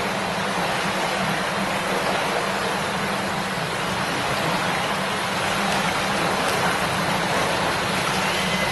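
A river babbling over its bed: a steady, unbroken rush of flowing water.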